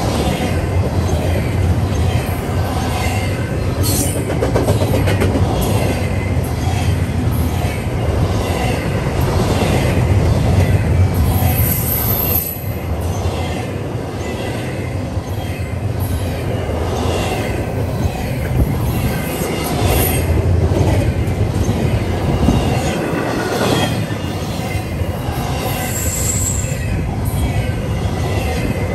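Double-stack intermodal freight train passing close by: a steady rumble of steel wheels on rail with repeated clicks as the wheels cross rail joints, and a couple of brief high-pitched wheel squeals, about 12 and 26 seconds in.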